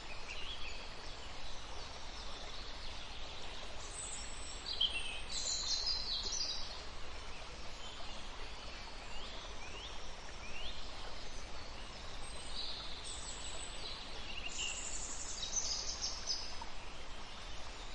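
Robin singing: two spells of high twittering song, one about four seconds in and another about thirteen seconds in, with a few short thin chirps between, over a steady background hiss.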